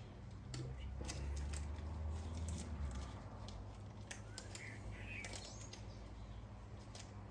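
Light clicks and taps of small metal bicycle pedal parts being handled on a workbench, over a steady low hum. A low rumble runs from about one to three seconds in, and a brief chirping glide comes about five seconds in.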